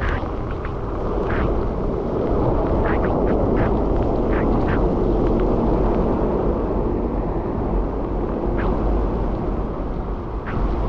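Wind buffeting the microphone of a bicycle rider's camera during a rainstorm, a steady, dense rush, with a scatter of short sharp ticks over it.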